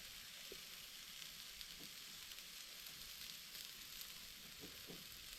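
Hot dogs frying with a faint steady sizzle and a few small pops.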